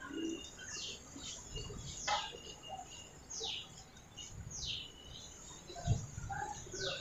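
Small birds chirping: short high calls that sweep downward, every second or so. Under them, soft low bumps of the marker and hand against the drawing paper, one a little louder near the end.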